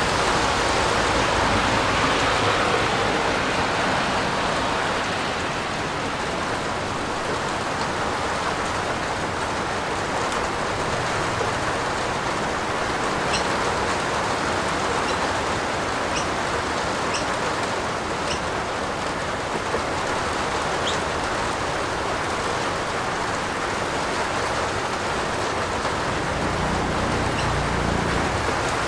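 Rain falling steadily in an even hiss. A few sharp drop ticks stand out now and then through the middle.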